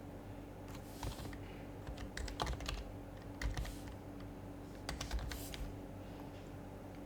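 Typing on an HHKB Professional HYBRID Type-S keyboard with its silenced Topre capacitive switches. Scattered keystrokes come in short bursts from about a second in until past five seconds, then stop. A steady low hum runs underneath.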